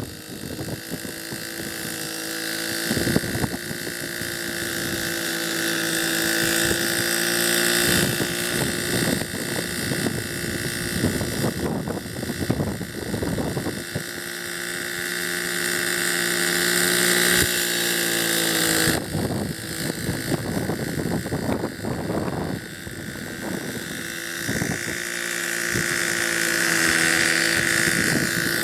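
Hirobo model helicopter's small glow engine and rotors running steadily, the engine note dipping and rising slightly a few times, with wind buffeting the microphone.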